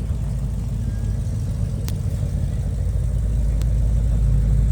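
A car engine running with a low, steady rumble, growing louder in the second half.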